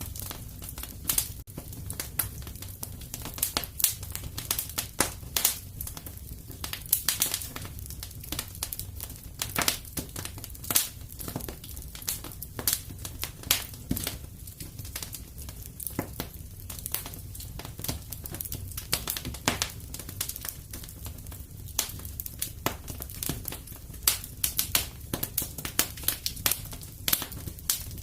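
Wood fire in a fireplace crackling and popping, with irregular sharp snaps scattered over a steady low rumble of the burning.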